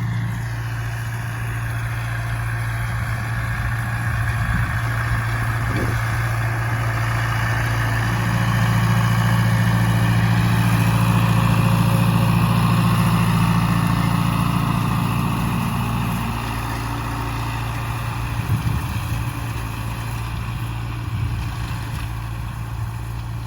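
Farm tractor's diesel engine running steadily at working speed, growing louder from about 8 seconds in and easing off again after about 16 seconds.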